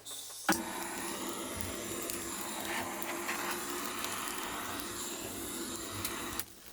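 Steady whirring of a small motor-driven appliance, starting with a click about half a second in and stopping abruptly near the end.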